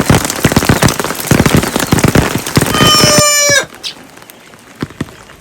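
Heavy rain with many sharp drop hits, and a rooster crowing about three seconds in, its call falling at the end. The rain cuts off abruptly just after, leaving a much quieter background with a couple of faint knocks.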